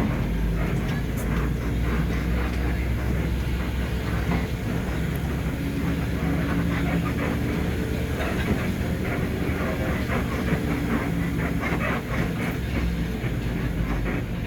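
Bus diesel engine running steadily with a low hum, with irregular clattering and rattling over it as the bus rolls off the ferry's car deck.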